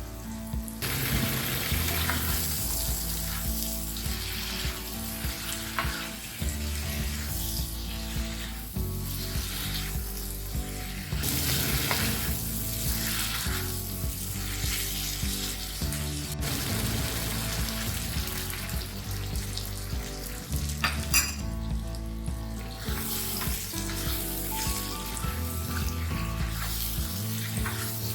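Food sizzling as it fries in hot oil, with occasional stirring scrapes, over instrumental background music.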